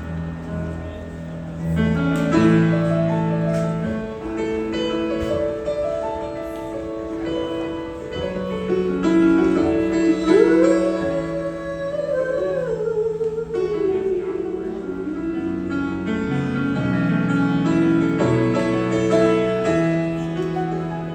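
Live keyboard playing sustained chords in an instrumental passage between sung verses. About ten seconds in, a melody line slides up, holds, then slides back down.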